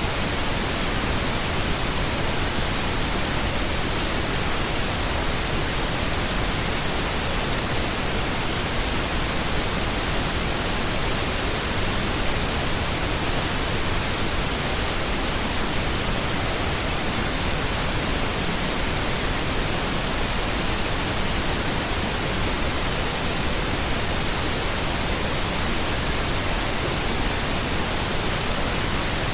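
Steady synthetic pink noise: an even, unchanging hiss spread across all pitches, softly ocean-like.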